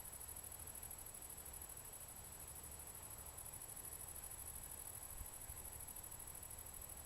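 Faint, steady high-pitched chirring of crickets over a low, even rumble; no thunder.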